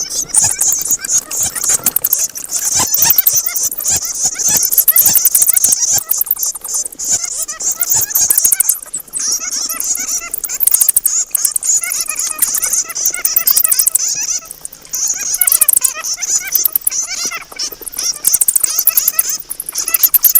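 Bats squeaking and chattering: a dense, unbroken run of rapid, high-pitched calls, with scattered sharp clicks in roughly the first eight seconds.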